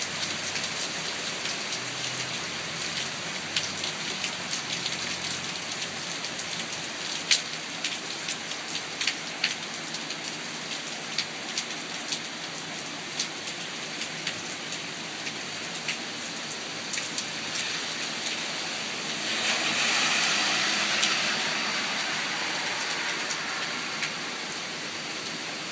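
Steady rain falling, with the sharp taps of individual drops striking close by. About twenty seconds in, a louder rushing hiss swells up and fades away over a few seconds.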